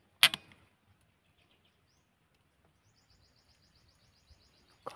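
One sharp, loud click about a quarter second in, then near the end a rapid run of high chirps from a small bird, about eight a second, and another short click at the very end.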